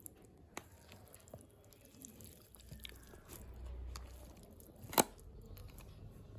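Soft chewing and eating sounds close to the microphone, with scattered small clicks and one sharp click about five seconds in.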